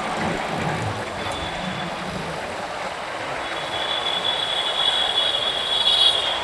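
Road and wind noise of a motorcycle ride through city traffic, with a thin high-pitched squeal coming in briefly about a second in and then holding through the second half, loudest near the end.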